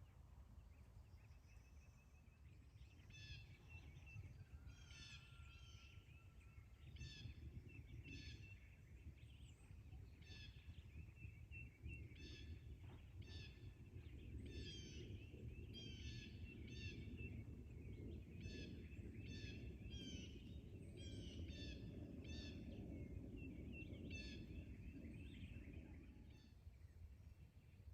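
Faint songbird calls: many short high chirps and trills repeating throughout, over a low rumble that grows louder in the second half.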